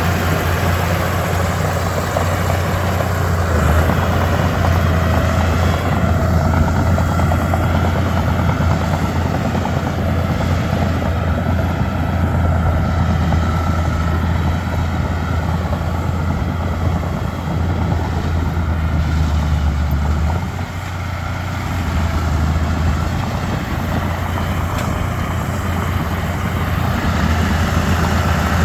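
Komatsu D31P bulldozer's diesel engine running steadily under work, a low, even drone that eases briefly about twenty seconds in before picking up again.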